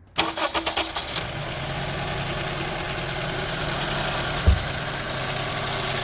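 A 2002 Honda CR-V's 2.4-litre four-cylinder engine is cranked by the starter for about a second, catches and settles into a steady idle. A brief low thump comes about four and a half seconds in.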